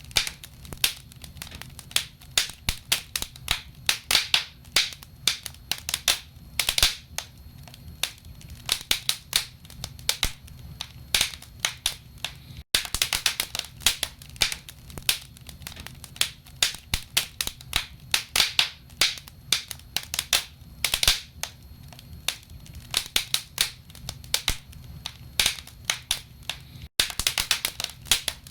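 Wood fire in a fireplace crackling: burning logs give off dense, irregular pops and snaps over a low, steady rumble.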